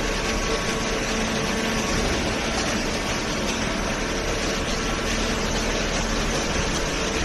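Commercial cardboard baler running: a steady mechanical noise with a low, even hum.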